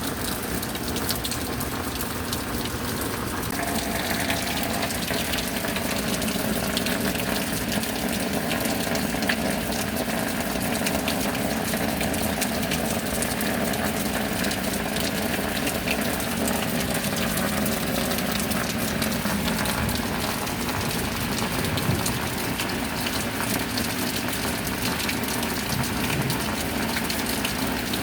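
Steady rain with water running and gushing, an even continuous wash with fine pattering drops. A fuller, pouring sound joins it about four seconds in.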